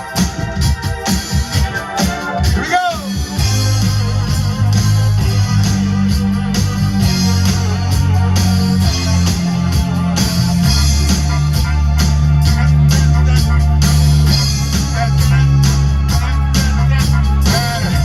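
Live band playing an instrumental funk passage: sharp rhythmic hits for the first few seconds, a short sliding note just before three seconds in, then long held low bass notes and chords.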